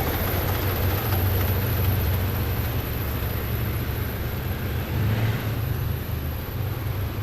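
Heavy military vehicles driving past in a column: a deep, steady engine rumble that eases off a little near the end.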